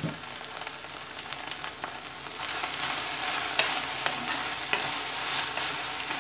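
Okra pieces with sliced onion and crushed ginger sizzling in hot oil in a clay pot, stirred with a wooden spatula. The sizzle grows louder about halfway through as the stirring gets going, with a few clicks of the spatula against the pot.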